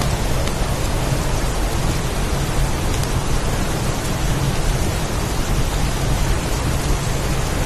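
Heavy storm ambience: a steady, dense hiss of rain and wind with a deep rumble underneath.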